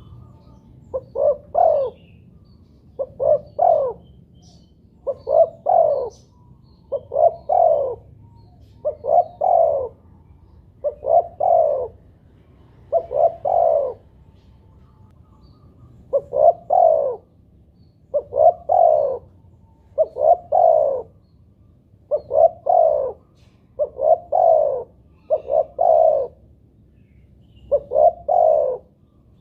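Spotted dove cooing: short phrases of two or three quick, falling coos, repeated about every two seconds with a couple of slightly longer pauses.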